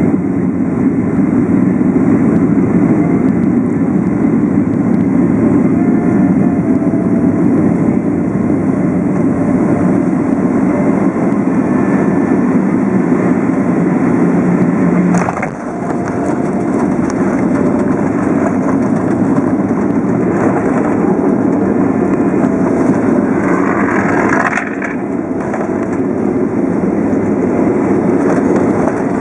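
Airliner cabin noise during landing: a steady, loud roar of engines and airflow, with a sharp knock about halfway through and a drop in level later on.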